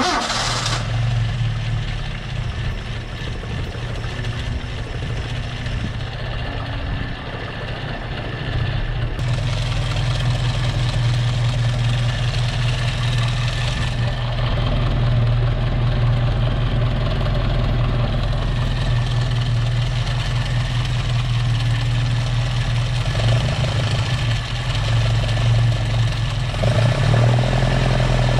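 Alfa Romeo Giulia Super's Nord twin-cam four-cylinder engine running at idle just after starting, steady throughout. It gets a little louder about nine seconds in and again near the end.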